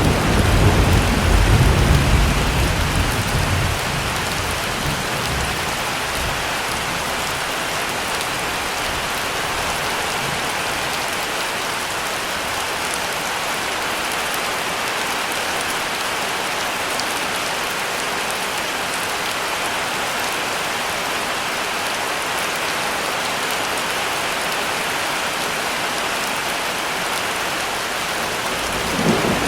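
Heavy rain falling steadily, with a low thunder rumble dying away over the first few seconds and another rumble starting right at the end.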